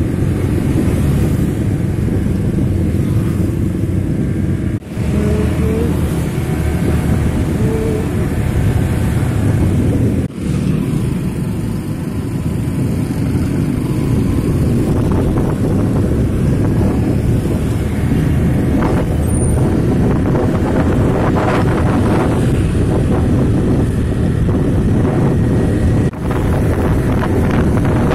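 Motor vehicle on the road: steady, loud engine and road noise that dips briefly three times.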